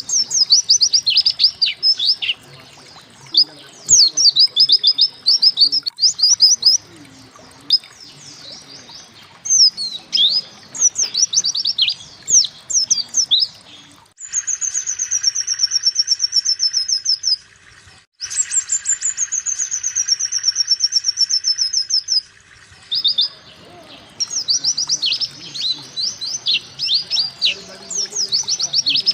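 White-eye (pleci) song: quick runs of sharp, high chirps, each note sliding downward. In the middle come two long, fast trills, each a few seconds long, that drift slowly lower in pitch.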